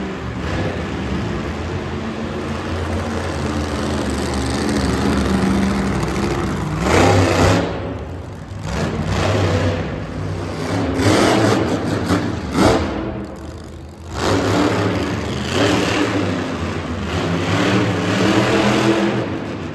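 Monster truck engine running hard and revving in repeated surges, its pitch rising and falling, with a brief drop about fourteen seconds in.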